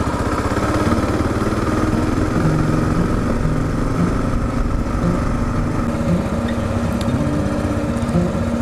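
Kawasaki KLR 650 single-cylinder four-stroke engine running steadily under way, its pitch rising and falling slightly with the throttle.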